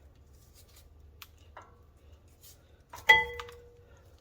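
Light clicks from small metal parts being handled, then about three seconds in a single sharp metallic clink that rings briefly with a clear tone and fades.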